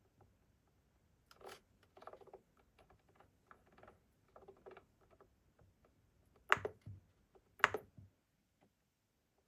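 Scattered light clicks and rustles, then two sharper knocks about a second apart.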